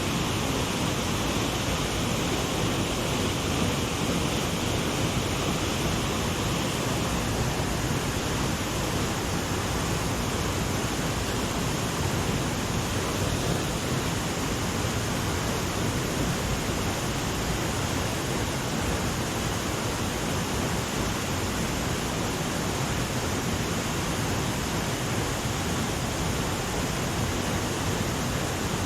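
River water rushing steadily over rocks, an even unbroken hiss and roar with no change.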